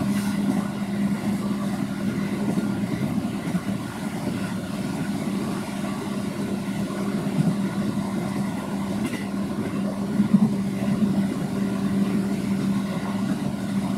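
Running noise inside a moving electric commuter train car: a steady rumble of wheels on rail under a constant low hum, with a few light knocks.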